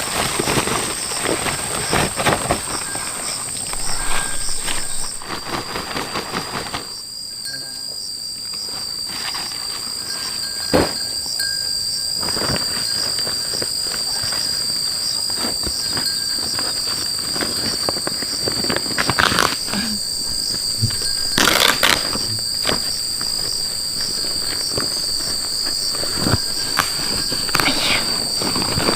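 Insects calling in a steady high-pitched whine, one pitch giving way to a lower one about five seconds in, with scattered sharp knocks throughout.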